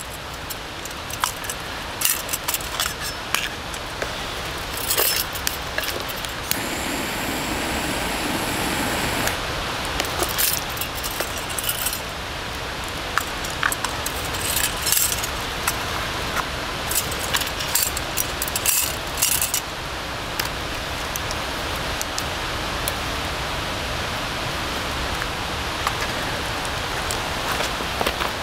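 Many short metallic clinks and rattles, like camp gear being handled, over a steady outdoor hiss, with a louder rushing sound for about three seconds near the seven-second mark.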